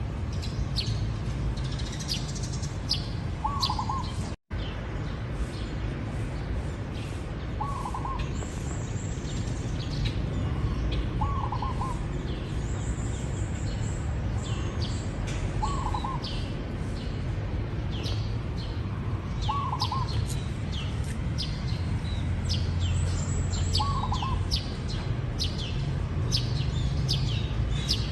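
Zebra dove cooing: a short rolling coo repeated about every four seconds, over many quick high chirps from other small birds. The sound cuts out for an instant about four seconds in.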